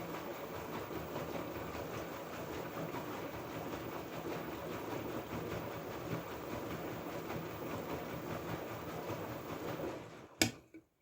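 LG F12A8ND front-loading washing machine running, its drum turning the wash with a steady churning noise. The sound dies away about ten seconds in, and a single sharp click follows.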